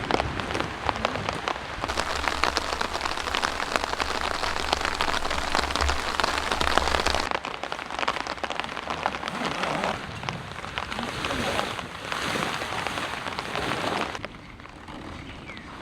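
Heavy rain falling, dense drops pattering on a surface. It eases and becomes quieter near the end.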